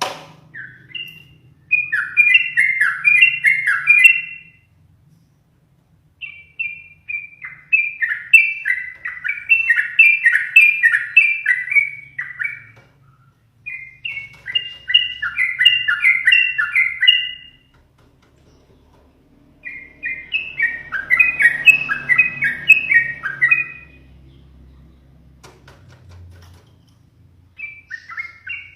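Yellow-vented bulbul (trucukan) singing in four bursts of rapid, bubbly chattering notes, each a few seconds long with short pauses between, and another burst starting near the end.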